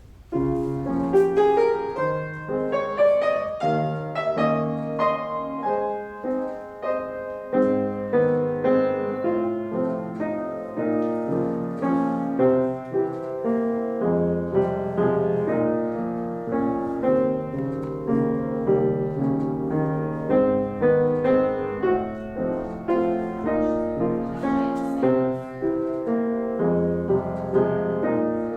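Piano music accompanying a ballet class exercise, starting abruptly with a rising run of notes over the first few seconds, then running on in steady chords and melody.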